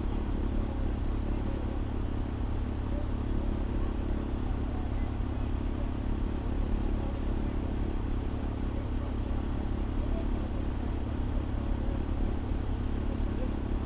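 Fire engine running steadily, a low, even rumble with a faint high steady whine above it.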